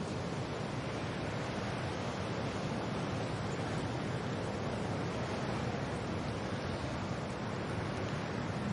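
Wind and rain blowing steadily: an even, unbroken rushing noise, heaviest in the low range.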